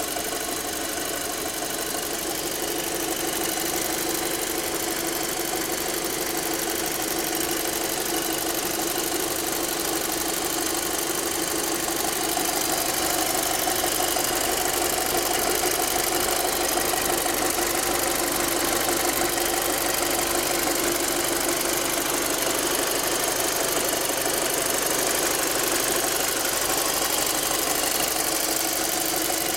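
Volkswagen Golf Touran engine idling steadily in the open engine bay, with a busy mechanical ticking over the hum.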